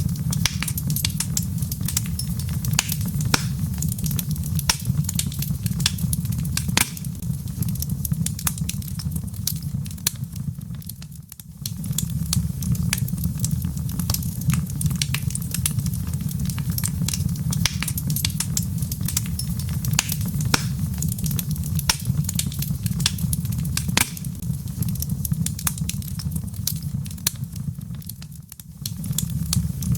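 Wood fire crackling in a fireplace, many sharp snaps of burning logs over a steady low rumble. The sound dips briefly twice, about a third of the way in and near the end.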